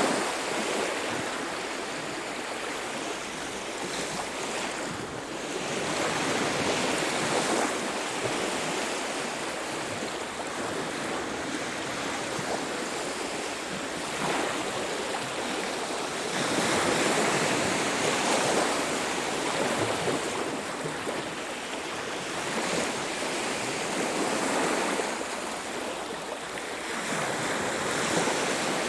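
Ocean waves breaking and washing up a beach, a steady surf rush that swells and ebbs every few seconds.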